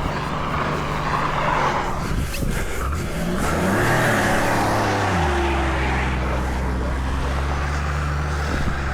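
A vehicle engine running and revving: its pitch shifts up and down from about two and a half seconds in, then drops to a steady lower note just after five seconds, with a hiss over it.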